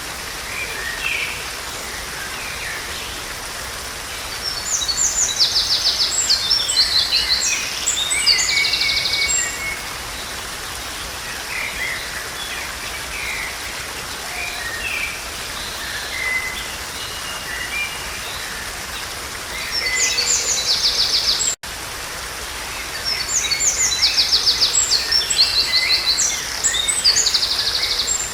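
Songbirds singing over the steady rush of a stream, with three long bursts of song made of fast repeated high notes and scattered shorter calls in between. The sound drops out for an instant about two-thirds of the way through.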